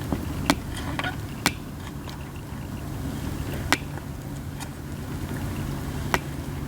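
Katsura wood burning in a campfire: a steady low rush of flames broken by sharp cracking pops, several in the first second and a half, another near four seconds in and one near six seconds.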